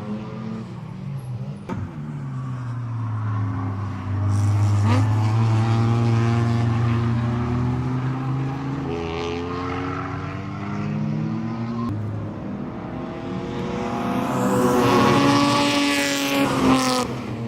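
BMW E30 race car's M52 straight-six engine running hard on track, its note stepping up and down in pitch as it revs and changes gear. It gets louder about four seconds in and again near the end.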